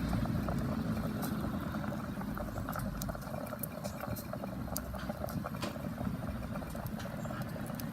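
Wood campfire crackling, with scattered sharp pops and ticks over a steady low rushing noise.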